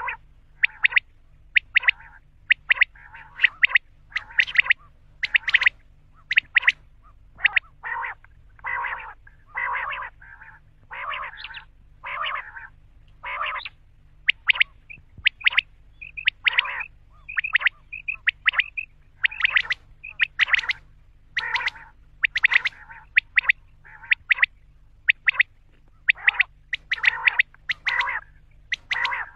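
Common quail calling over and over: short, sharp calls, often in quick runs, with a stretch of rougher, lower calls about a third of the way through.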